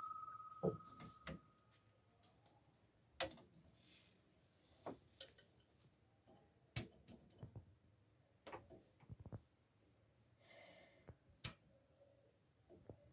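Scattered sharp clicks and knocks of tools and metal parts being handled during a refrigeration unit repair, with a metallic ring dying away over the first two seconds and a brief rustle about ten seconds in.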